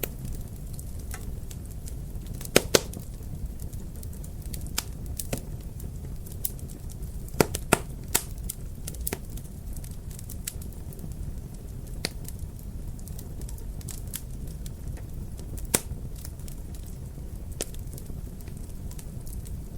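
Wood fire crackling, with irregular sharp pops over a steady low rumble. The loudest pops come as a quick pair about three seconds in, another pair about seven and a half seconds in, and a single one near sixteen seconds.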